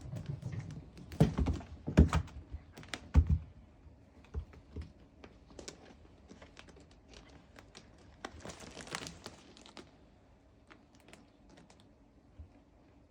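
Knocks and thumps, three louder ones in the first few seconds, then scattered light clicks and a brief scratchy rustle about two-thirds of the way through.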